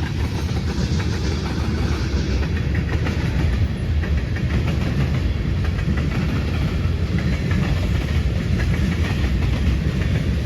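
CSX freight train passing close by: a steady, loud rumble of railcar wheels on the rails.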